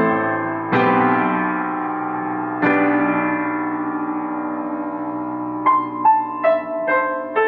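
Improvised solo piano: sustained chords struck twice and left ringing, then a run of single notes stepping downward in pitch near the end.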